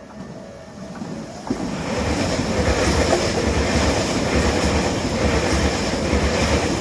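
Tobu 500 series 'Revaty' electric train passing close by. It swells to loud about a second and a half in, and its wheels clatter over the rail joints in a steady rhythm.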